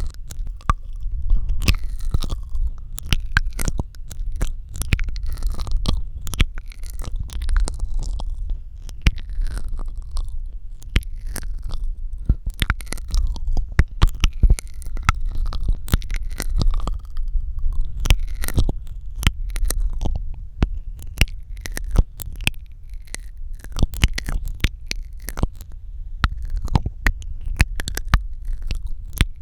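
ASMR mouth sounds close to the microphone: a dense run of wet clicks, smacks and sucking sounds from the lips and tongue, several a second, over a steady low rumble.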